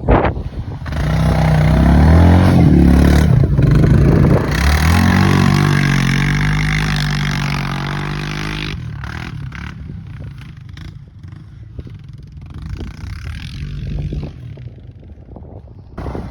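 Off-road vehicle engine revving hard, its pitch rising and falling for several seconds, then dropping off and fading quieter after about nine seconds. A sharp knock right at the start.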